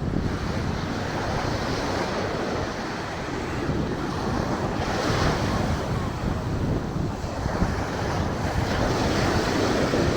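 Ocean surf breaking on a sandy beach, a steady wash of noise that swells twice, with wind rumbling on the microphone.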